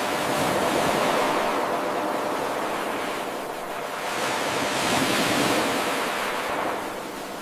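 Ocean waves washing on a shore: an even surf hiss that begins with a sudden surge, swells twice and eases off, one pass of a looped eight-second wave recording.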